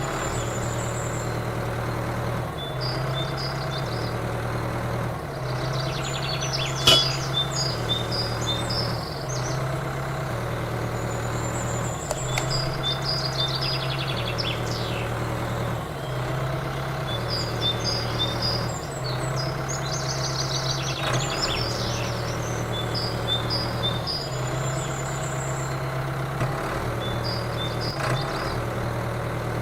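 Small diesel engine running steadily, driving a water pump, its drone dipping slightly every second or two. Birds chirp repeatedly over it.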